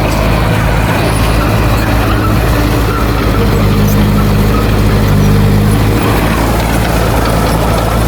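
Heavy diesel engine of earthmoving machinery running steadily, its note growing stronger for a couple of seconds in the middle before settling back.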